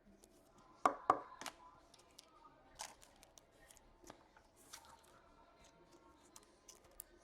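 Hockey trading cards and foil pack wrappers being handled: a string of light clicks, snaps and rustles, with two louder snaps about a second in.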